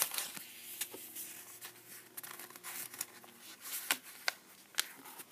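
Faint rustling of paper sticker sheets being handled, with scattered light clicks and ticks.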